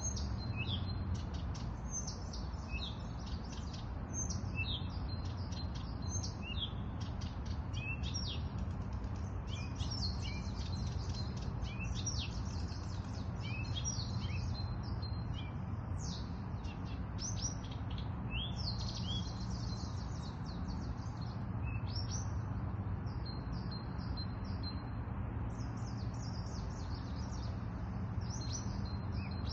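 Many small songbirds chirping and trilling in quick, overlapping bursts, with a steady low rumble underneath.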